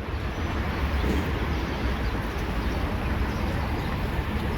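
Steady outdoor background noise with a heavy low rumble and no clear single event.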